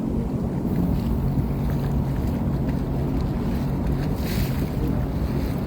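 Sea-Doo Fish Pro personal watercraft running under way with a steady engine drone, wind buffeting the microphone and water rushing past. About four seconds in there is a brief burst of hiss.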